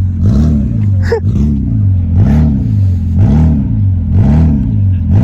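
Car engine revved repeatedly, about once a second, each rev rising and dropping back to idle. A short rising whistle sounds about a second in.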